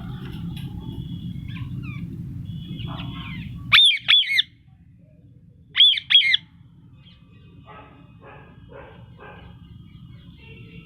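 Pet parrot giving two pairs of loud, shrill squawks about two seconds apart, with softer chirps and calls before and after. A steady low hum in the background stops just before the first squawks.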